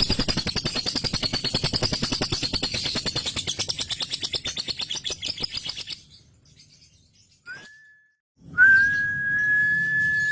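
Lovebird ngekek: a long, rapid chattering trill, many notes a second, that fades away about six seconds in. After a brief break, a long steady high whistle is held for a few seconds.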